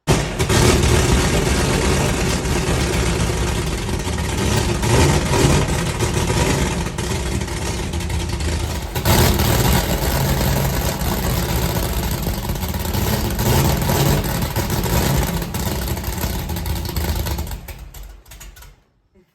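Chevrolet C10 pickup's 8.1-litre big-block V8 running loudly on a short exhaust that is not yet run to the back of the truck. It is revved several times, then shut off near the end.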